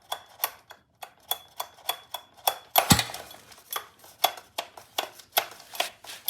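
Gas scooter's stiff recoil pull-starter clicking repeatedly, two or three sharp clicks a second, with a louder rattling clack about three seconds in. The starter is very hard to pull and gets stuck, and the owner doesn't know what the noise is.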